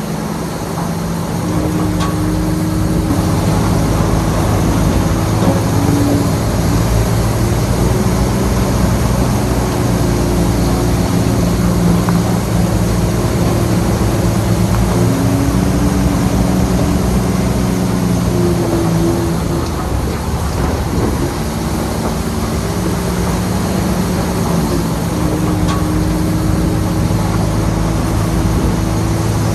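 Shantui bulldozer's diesel engine running steadily under load, its pitch dipping and wavering briefly about two-thirds of the way through.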